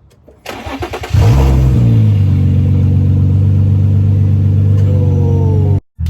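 Infiniti G35's 3.5-litre V6, with its muffler and resonators deleted, being started: a short crank, then it catches about a second in and idles loud and steady.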